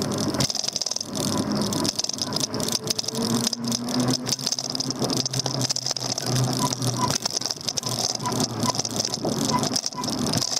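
Daymak Max e-bike riding along, rattling over the road with many quick clicks and a steady low hum underneath.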